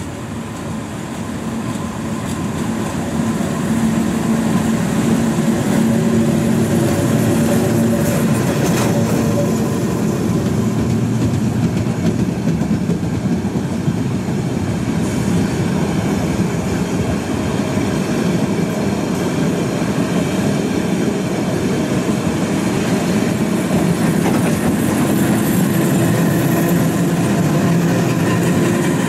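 Yellow engineering train of track-machine wagons running through a station: a continuous rumble and clatter of wheels on the rails. It grows louder over the first few seconds as the train comes in, then holds steady as the wagons pass.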